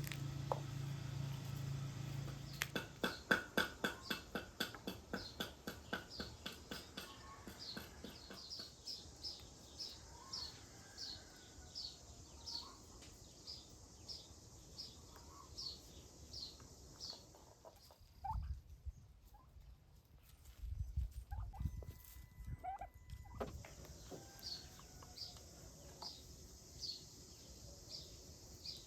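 Birds calling: a run of fast, loud, evenly repeated calls a few seconds in, then a small bird repeating a short high chirp about twice a second. A few low thumps come in the second half.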